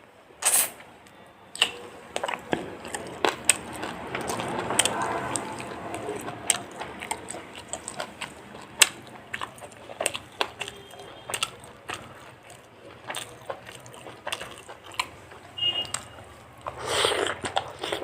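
A person eating fried chicken close to the microphone: irregular biting, chewing and wet mouth clicks, with a louder stretch of chewing about five seconds in and again near the end.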